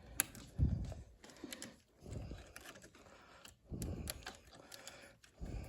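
Handling noise from work on thermostat wiring: scattered small sharp clicks with soft low bumps every second or so.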